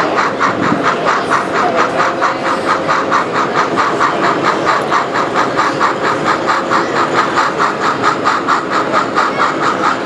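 Model train running on a layout, giving a steady, even rhythm of about four beats a second.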